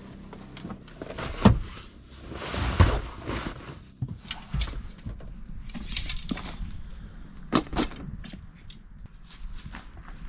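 Handling noises: a string of clicks and knocks, sharpest about a second and a half in and twice close together near the end, with a short rustle in between.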